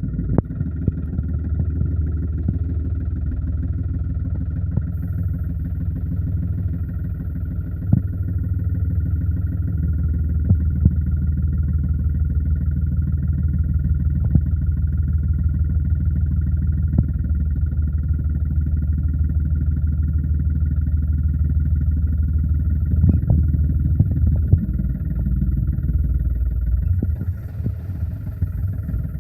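John Deere 5105 tractor's three-cylinder diesel engine running steadily under a heavy load of about 90 quintals of gravel, with scattered knocks and clatters. The engine eases a little near the end.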